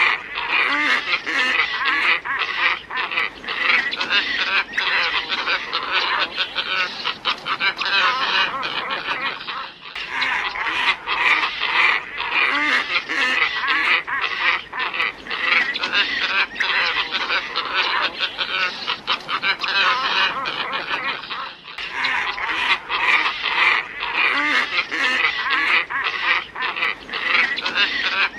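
A flock of glossy ibises calling in a dense, continuous chorus of hoarse grunting calls. This is a lure-call recording that loops, briefly breaking and starting over about every 12 seconds.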